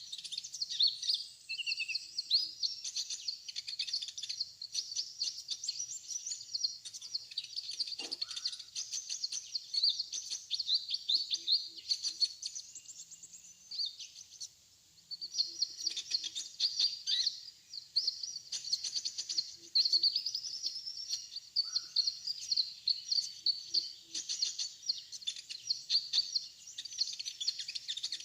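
Kolibri ninja sunbirds chirping and twittering rapidly and high-pitched, almost without a break, with a short lull around the middle.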